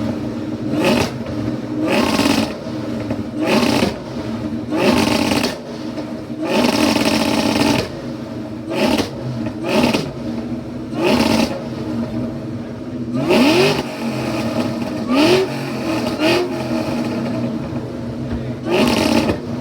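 Ford Mustang engine, with a modified exhaust, revved over and over: about a dozen quick throttle blips, a couple held a little longer, dropping back to idle between them.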